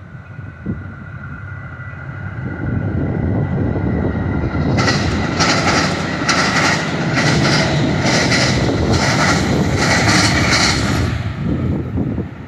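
Metra commuter train of bilevel cars passing close by. Its rumble builds, then its wheels clatter over the junction's rail joints about twice a second for some six seconds before it fades away.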